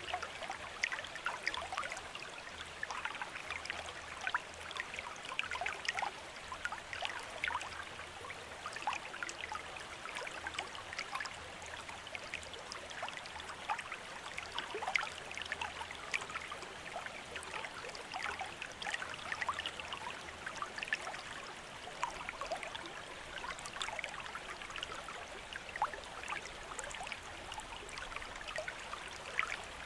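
Bamboo water fountain: water trickling and splashing steadily from the bamboo spout, a dense patter of small splashes with no regular knock.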